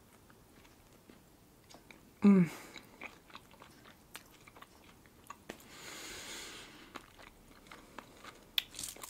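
Close-miked chewing of a red caviar sandwich: salmon roe on bread. Soft wet mouth clicks and tiny pops come as the roe eggs burst. A brief hum about two seconds in is the loudest sound.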